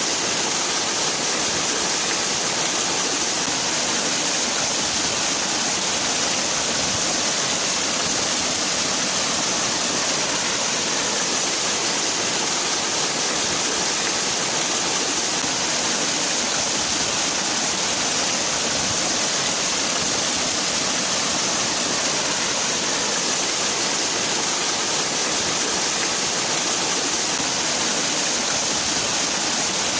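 Waterfall: falling water rushing in a steady, even hiss, strongest in the high range, without change.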